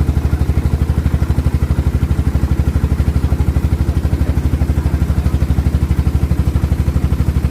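Tour boat's engine running steadily with an even low chugging, about ten beats a second.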